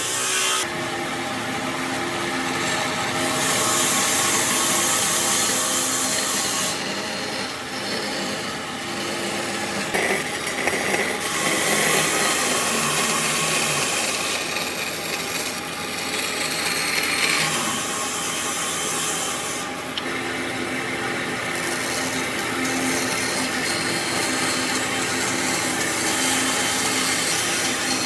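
Electric power tool working wood: a steady motor running with continuous rasping of wood, swelling and easing every few seconds.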